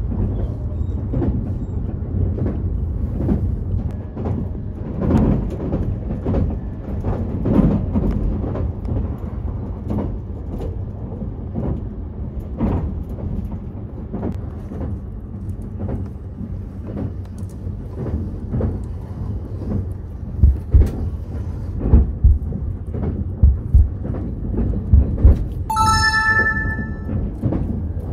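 Steady low rumble of a moving train heard from inside the passenger car. A few heavy low thumps come about three-quarters of the way through, and a short ringing chime sounds near the end.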